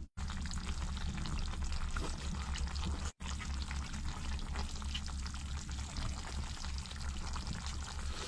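Chicken stew simmering in a pot, a steady bubbling with fine crackle over a low hum. It cuts out completely twice, right at the start and about three seconds in.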